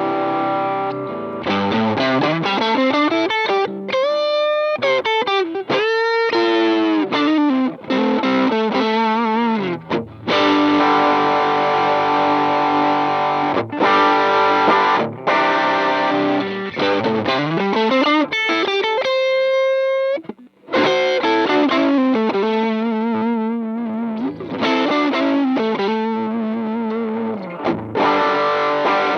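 Electric guitar through a Demonfx King Spark overdrive pedal, a clone of the Piggyfx Flashdrive, played with a distorted tone. It mixes held chords with notes sliding up and down in pitch, and the sound breaks off briefly about two-thirds of the way through.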